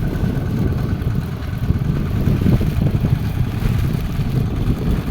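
Fishing boat's engine running steadily, a low continuous rumble with a faint steady whine above it.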